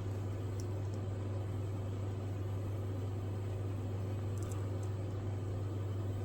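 Electric power tool motor running steadily with a low hum, likely a sander or buffer finishing wooden knife scales.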